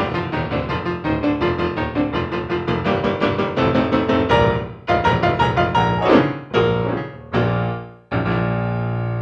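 Solo piano playing a quick, flowing run of notes, then a few slower chords, settling on a held chord near the end.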